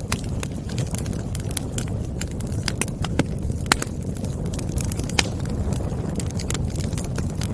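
Wood fire burning in a fireplace: a steady low rumble of flames with frequent, irregular sharp crackles and pops from the burning logs, a few louder pops about halfway through.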